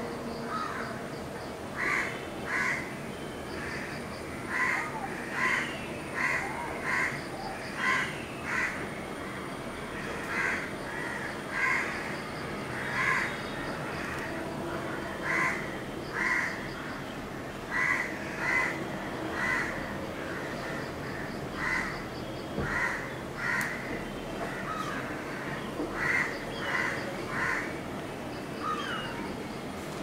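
Bird calls repeated in short runs of two to four, recurring every few seconds, over steady outdoor background noise.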